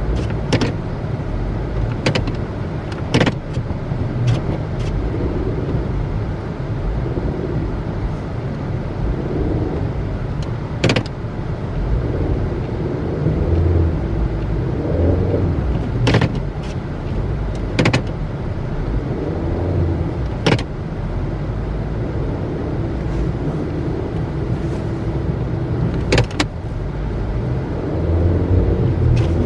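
All-wheel-drive car's engine revving up and down again and again as it tries to drive out of snow it is stuck in. Several sharp knocks sound at intervals of a few seconds.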